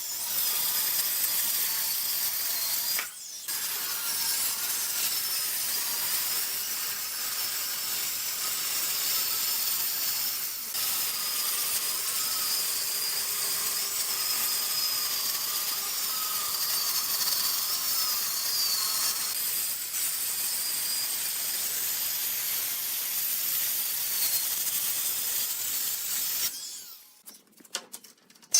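A woodworking power tool running steadily on wood: a high whine over hiss, with two short breaks, dying away near the end.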